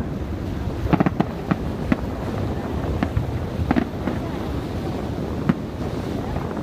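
Aerial fireworks shells bursting with sharp bangs over a steady low rumble. Three bangs come in quick succession about a second in, then single reports follow every second or so.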